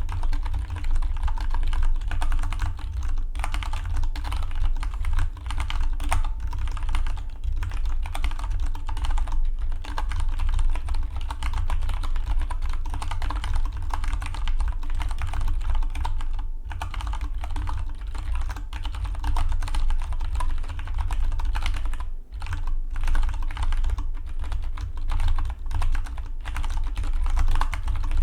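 Fast, continuous typing on a Dygma Defy split mechanical keyboard: a dense run of key clicks, with short lulls about 16 and 22 seconds in. A steady low rumble runs underneath.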